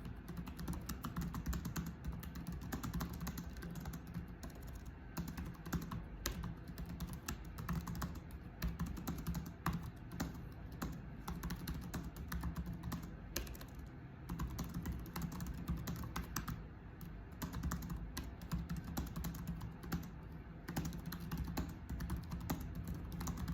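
Typing on a computer keyboard: a continuous, irregular run of rapid key clicks over a faint steady low hum.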